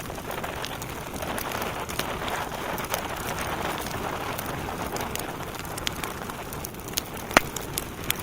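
Wood fire crackling in a fireplace: a steady hiss of burning logs, swelling a little for a few seconds, with scattered sharp snaps and one louder pop near the end.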